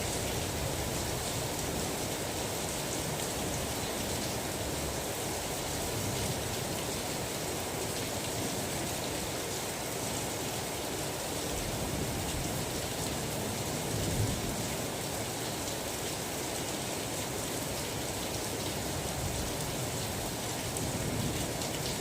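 Steady rain falling, an even hiss of drops with one faint knock about fourteen seconds in.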